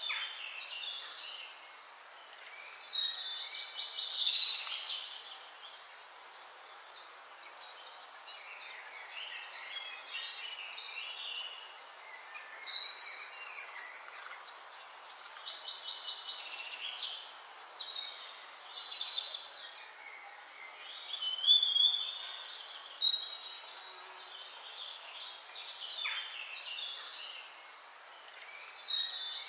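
Songbirds singing: high chirping phrases of a second or two, returning every few seconds, over a faint steady hiss.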